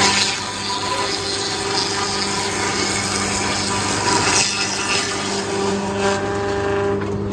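Sawmill machinery running with a steady, unbroken mechanical hum and drone.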